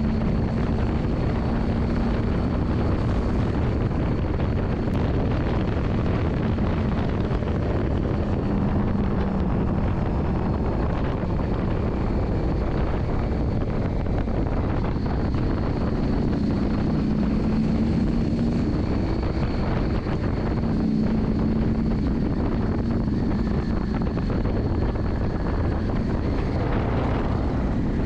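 Yamaha Drag Star 400's air-cooled V-twin running steadily while riding, its note wavering slightly in pitch, under heavy wind noise on the microphone.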